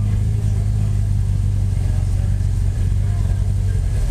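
Car engine running steadily at an even, low pitch, without revving.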